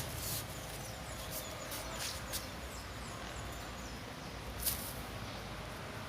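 Faint, high, short chirps from birds, several in the first few seconds, with a few sharp clicks or rustles (the loudest about three-quarters of the way through) over a steady low hum.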